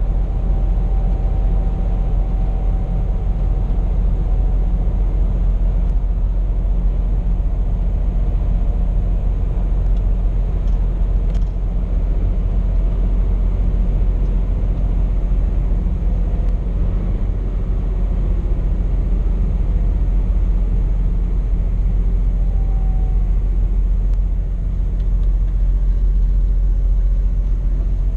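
Scania P420 truck's diesel engine and road noise heard from inside the cab: a steady low rumble.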